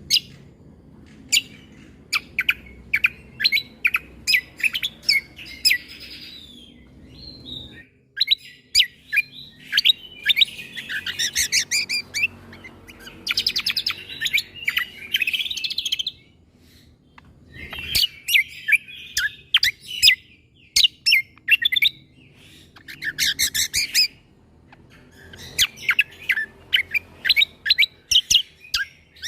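Cucak kombo (kecial kombo) singing in bouts of rapid, sharp, loud notes, the shot-like 'tembakan' phrases of a song-tutoring recording, with short pauses between bouts over a faint low hum.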